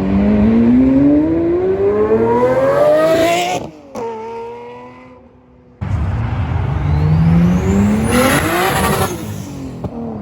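Lamborghini Murciélago SV's V12 accelerating hard, its note climbing steadily for about three and a half seconds before cutting off sharply. After a short lull, a second pull climbs again and falls away near the end.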